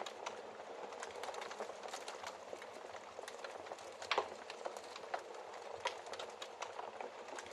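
Wood fire crackling in a fireplace: a steady soft hiss with frequent small pops and clicks, and one louder pop about four seconds in.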